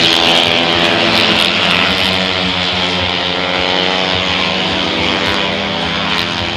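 Moto3 racing motorcycles' 250 cc four-stroke single-cylinder engines running at high revs on the circuit, heard as a loud, steady drone of engine notes.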